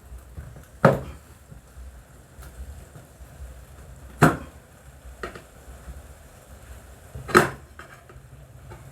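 Three sharp knocks, metal on metal, about three seconds apart, with a fainter knock between the second and third: tools striking during a motorcycle tyre repair.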